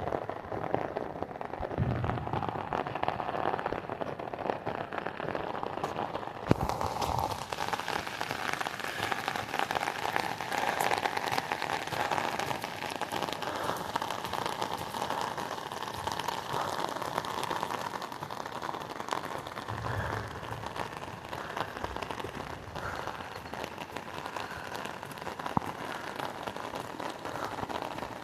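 Steady, hissing noise of water, which becomes brighter and hissier about a quarter of the way in.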